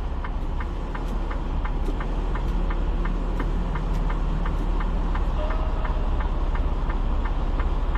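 Semi-truck diesel engine running steadily with a deep rumble, with a light ticking about twice a second.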